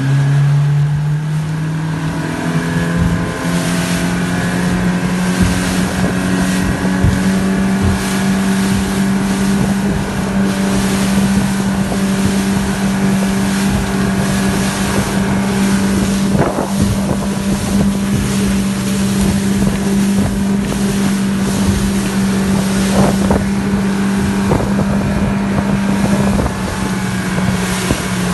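Yamaha 70 hp four-stroke outboard motor running a boat at high speed, its note rising over the first couple of seconds and then holding steady, with a rush of wind and water. A few brief knocks come through near the middle and later on, and the engine note drops slightly near the end.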